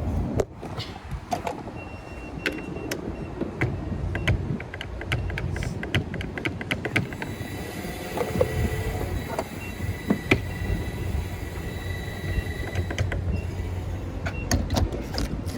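Car engine and road rumble, with a run of sharp clicks and knocks in the first half.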